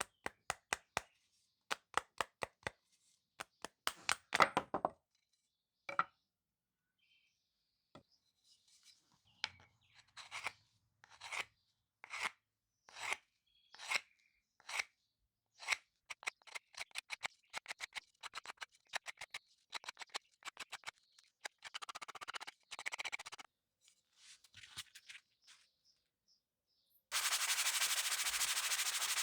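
Abrasive work on a tool: many short rubbing strokes, singly and in quick runs, then a steady sanding noise starts near the end and runs on loudly.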